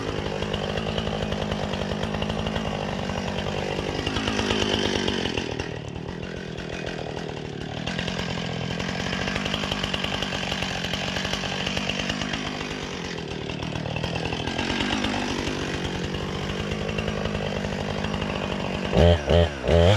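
Chainsaw cutting into a tree trunk, its engine pitch sagging and picking back up several times as the chain bites and eases. A louder, choppy sound starts near the end.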